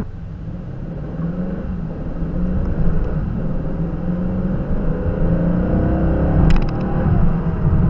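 2019 Aston Martin Vantage's twin-turbo 4.0-litre V8 running on the move, its note rising and getting louder as the car accelerates in the second half. A brief sharp click comes near the end.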